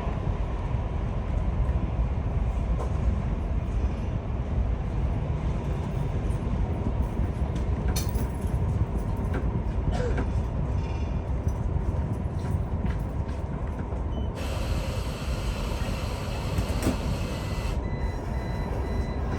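Vy passenger train running on the rails, a steady low rumble with a few sharp clicks. A louder hiss comes in for a few seconds about three quarters of the way through, and a faint high tone sounds near the end.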